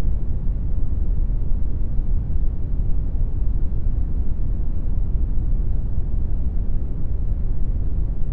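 Brown noise generated in Audacity: a steady, deep rumbling hiss with most of its weight in the bass and little treble, unchanging throughout.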